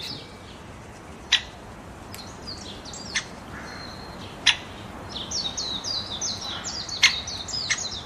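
Birds chirping: runs of short, quick, downward-sliding chirps, thickest in the second half, with five sharp ticks scattered among them.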